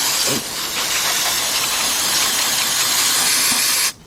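Aerosol can of carburetor cleaner spraying onto a mower carburetor: one long, loud, continuous hiss that cuts off abruptly near the end.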